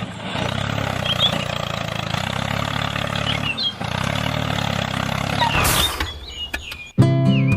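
A small motor running steadily, with a few short high chirps over it. It breaks off with a brief rushing burst near the end, and music starts suddenly.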